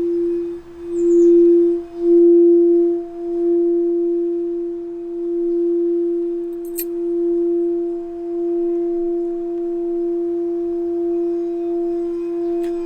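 Singing bowl sounding one sustained tone with a fainter overtone above it, swelling and easing in loudness over the first few seconds, then holding steady. A brief click about seven seconds in and another near the end.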